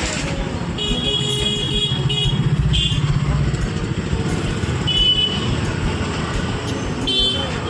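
Road traffic: a motor vehicle engine running with a low pulsing hum, and several short high-pitched horn toots.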